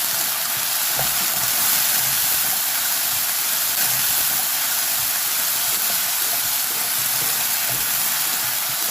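Onions and ginger-garlic paste sizzling steadily in hot oil in a pan, being fried until the paste loses its raw smell.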